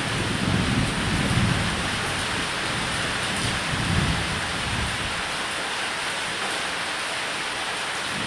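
Steady rain falling on a roof, with low thunder rumbling that swells during the first two seconds and again about four seconds in.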